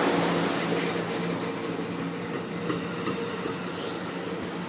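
Amtrak passenger train rolling slowly into the station with a steady hum. A run of wheel clicks over the rail joints comes about half a second to a second and a half in.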